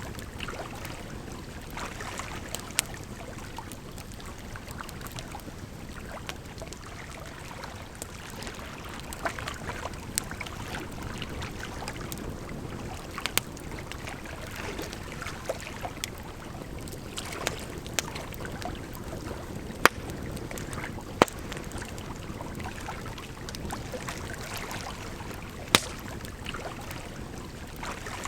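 Campfire crackling, with sharp irregular pops every few seconds, over a steady rush of running water.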